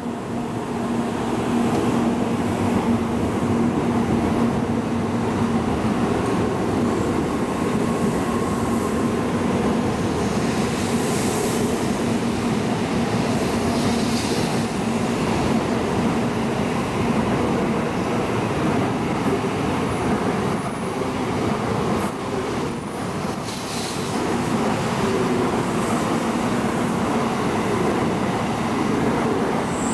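N700 series Shinkansen train pulling out and running past along the platform: a steady running noise of wheels and running gear with a low hum underneath.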